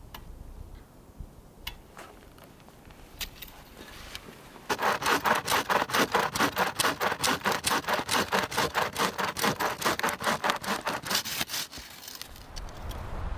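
Bow saw cutting through wood in quick, even back-and-forth strokes, about three a second. The sawing starts about five seconds in after a few faint knocks and stops near the end.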